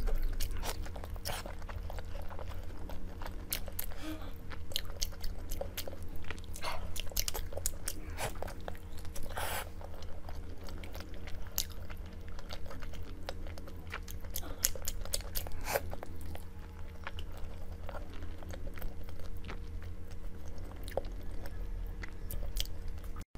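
Close-miked chewing of food: a steady run of wet mouth clicks and small crunches, with a sharper crunch about nine and a half seconds in and another near sixteen seconds, over a low steady hum.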